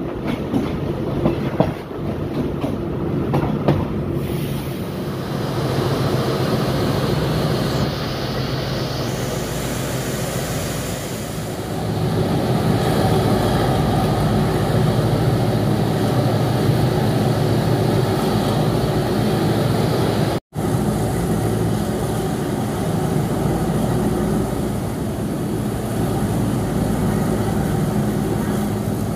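Passenger train running on the rails, heard from a carriage window: wheels rumbling and clattering over the track. There are sharp clacks in the first few seconds, and it grows louder about twelve seconds in.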